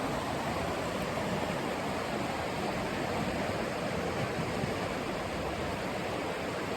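Mountain creek rushing steadily over rocks, an even hiss of running water.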